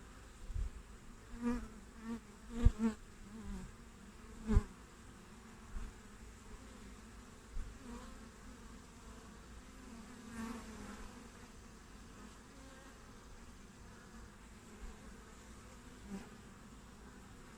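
Honeybees buzzing at the hive entrance as they fly close past the microphone, a string of swelling passes in the first five seconds and another around ten seconds, over a faint steady hum. Two sharp knocks stand out as the loudest sounds, a few seconds in.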